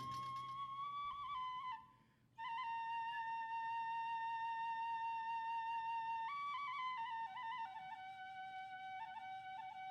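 Kagura bamboo transverse flute playing unaccompanied: held high notes with small ornamental turns, a brief breath break about two seconds in, then a long held note that steps down in ornamented turns to a lower note near the end.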